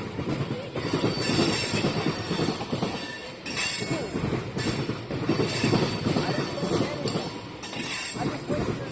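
Freight train of oil tank cars rolling past, with a steady rumble and clatter of wheels on rail. A high-pitched wheel squeal comes and goes several times, strongest about three and a half seconds in and near the end.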